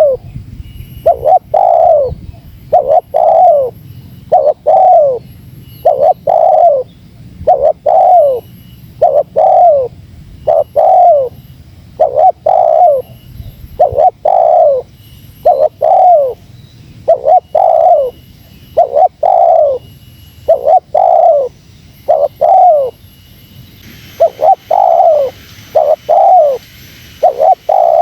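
Spotted dove cooing in a fast, unbroken series, about one falling coo a second. This is the tight, pressing calling of a male challenging a rival, used as a lure for wild spotted doves.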